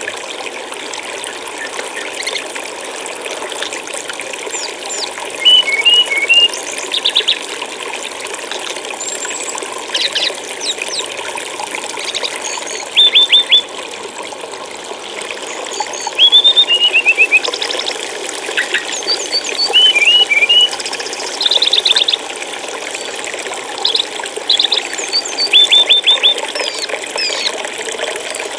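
Flowing stream water running steadily, with small songbirds chirping over it in short quick runs of three or four high notes every few seconds.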